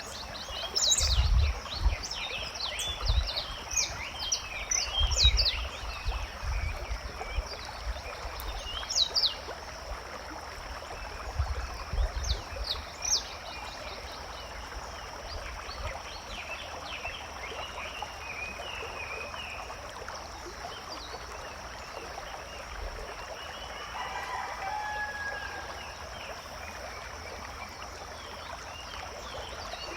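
Forest ambience of birds calling: many short high chirps, busiest in the first half, over a steady high-pitched drone, with a longer lower call about three quarters of the way through and a few low rumbles early on.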